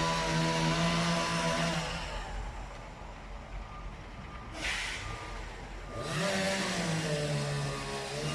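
An engine running fast and steady, dropping away about two seconds in. A short hiss comes just before the five-second mark, and the engine picks up again about six seconds in, its pitch rising and then sagging.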